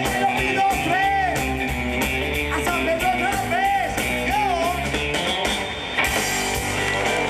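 Live rock-and-roll band playing, with guitar over a steady bass and a lead line of bending notes. The song ends about six seconds in, and crowd cheering and applause begin.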